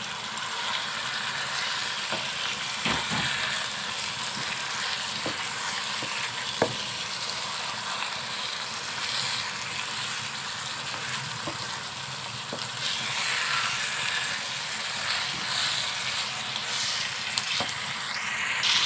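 Chicken pieces sizzling and frying in hot oil in a pan while being stirred with a wooden spatula, with a steady hiss and a few light knocks of the spatula against the pan.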